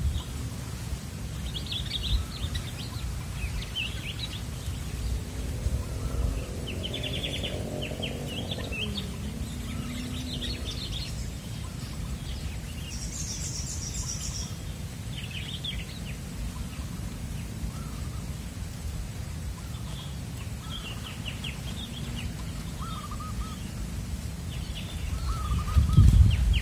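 Wild birds chirping in short scattered bursts over a steady low outdoor rumble, which grows louder near the end.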